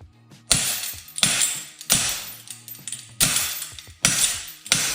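Hammer striking a steel crowbar that levers an improvised puller bolted to a fuel injector, working the injector out of a BMW N63 V8 cylinder head. There are six sharp metal blows at uneven intervals, each ringing briefly, over background music.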